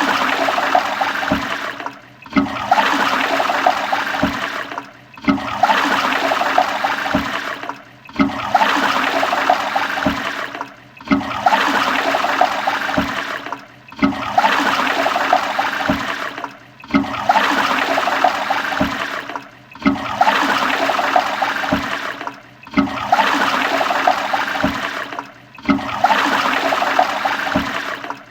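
Toilet flushing: rushing, gurgling water that breaks off briefly about every three seconds and starts again the same way, so the same short stretch of flush repeats about ten times.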